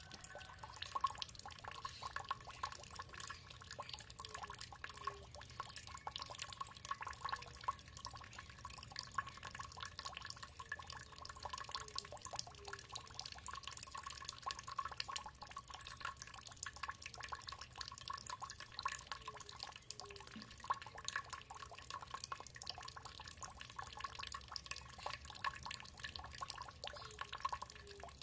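Water trickling steadily, with a constant patter of small drips and splashes and the occasional low droplet plop.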